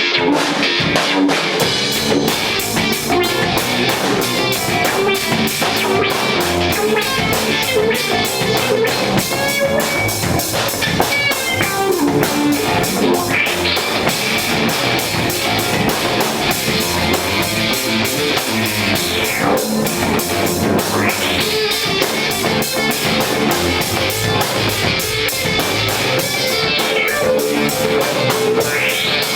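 Live punk rock band playing an instrumental passage on electric guitar, bass and drum kit. The drums come in at the very start, over guitar already playing, and keep a steady, fast cymbal beat.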